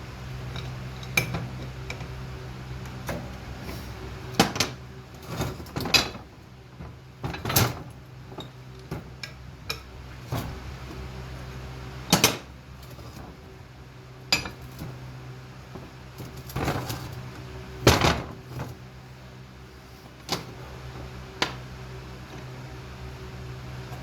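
Metal parts and tools clinking and knocking irregularly against one another, a loud knock every few seconds and smaller clinks between, over a steady low hum.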